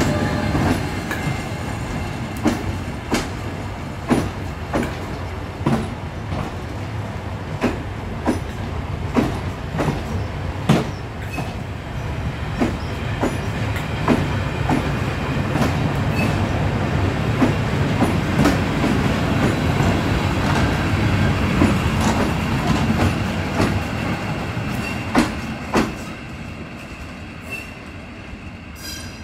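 A train passing close by: class 73 electro-diesel locomotive 73965 hauling Network Rail test coaches, with a steady low rumble of wheels on rail and a run of sharp, irregular clicks as the wheels cross rail joints. The sound fades over the last few seconds as the train draws away.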